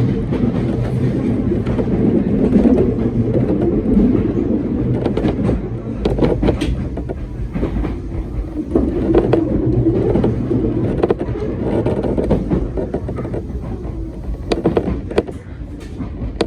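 Hakone Tozan Railway train running on its track: a steady low rumble with sharp clicks now and then from the wheels on the rails.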